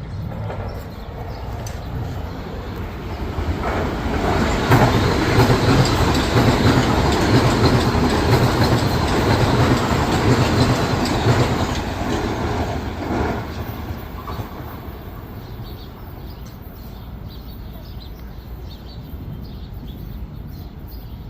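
Metro-North commuter train passing through the station: a rumble that grows over the first few seconds, is loudest for several seconds in the middle with wheels clacking over rail joints, then fades away.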